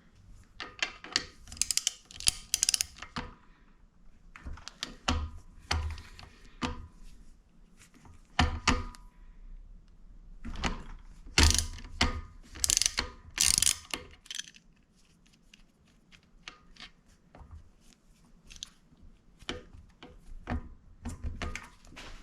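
Socket ratchet wrench clicking in short bursts as the kickstarter bolt is undone on a Honda CRF150R engine, with metal tool clinks in between.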